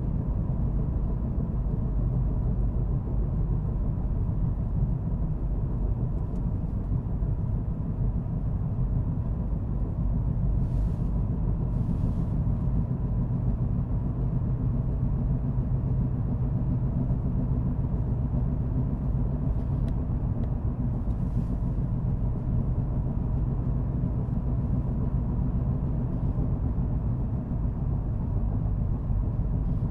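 Car driving at a steady pace: a constant low rumble of engine and tyre road noise.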